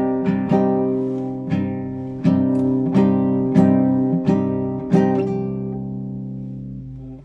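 Solo classical guitar improvising, plucked notes and chords in a slow phrase. Near the end a last chord is left to ring and fades away.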